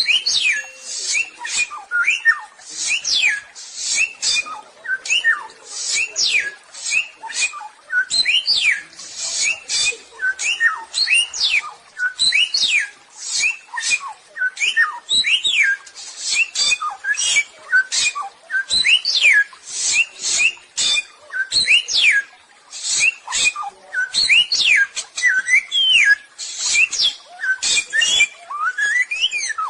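A samyong songbird singing on and on: a rapid, varied string of quick sweeping whistles mixed with harsh, chattering notes, several a second with hardly a pause.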